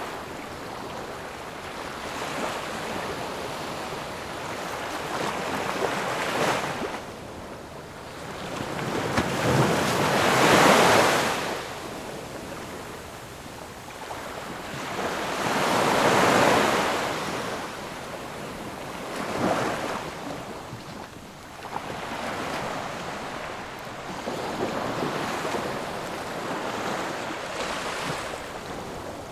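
Ocean waves breaking on the shore, a steady wash of surf with louder crashes rising and falling every few seconds; the two biggest crash about a third and just over half of the way through.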